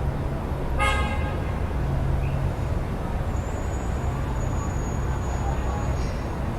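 Steady road traffic rumble from the street below, with one short car horn toot about a second in.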